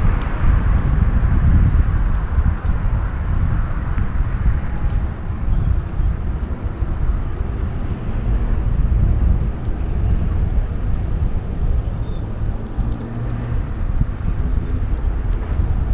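Wind rumbling on a helmet-mounted GoPro's microphone while riding a bicycle along a road, a steady low rumble.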